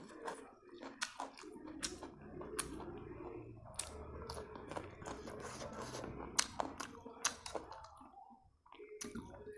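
Close-up chewing of raw carrot slices: irregular crisp crunches and wet mouth clicks, several a second, with a brief lull near the end.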